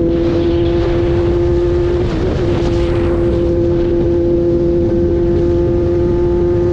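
Vehicle engine running at a steady speed: a constant hum with its overtones over heavy wind and road noise, with a brief wobble in pitch about two seconds in.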